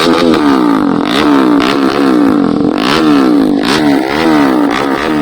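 Bajaj Pulsar RS200's single-cylinder engine revved through an SC Project-style aftermarket exhaust: quick repeated throttle blips, the pitch rising and falling over and over, with a few sharp cracks between them.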